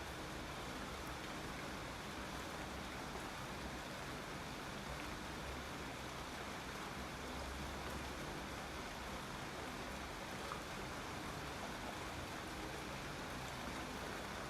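Steady rain: an even, dense hiss with a couple of faint single-drop ticks.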